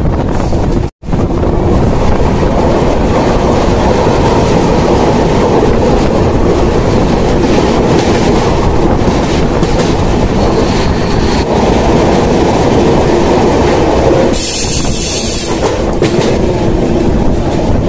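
Passenger train coach running on the rails, a loud steady rumble and clickety-clack of wheels heard from an open coach doorway, passing through a tunnel. A brief high hiss comes about 14 seconds in.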